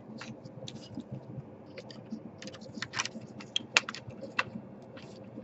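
Irregular light clicks and taps of hands and a tool working on a laptop's plastic case and internal parts, with a few sharper clicks about three to four seconds in.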